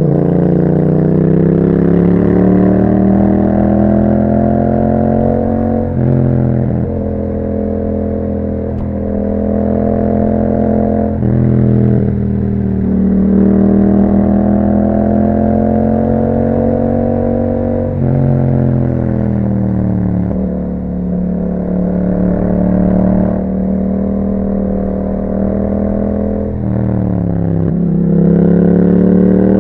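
2021 Yamaha MT-07's parallel-twin engine through an Akrapovic exhaust, riding along. Its pitch climbs steadily as it pulls, then drops sharply at each of several gear changes.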